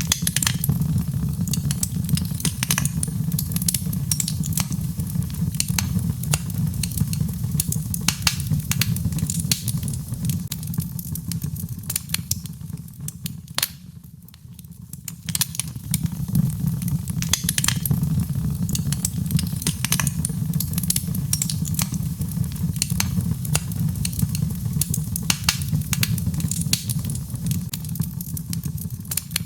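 Birchwood fire burning in a fireplace: frequent sharp crackles and pops over a steady low rumble of the flames. The crackling eases briefly about halfway through, then picks up again.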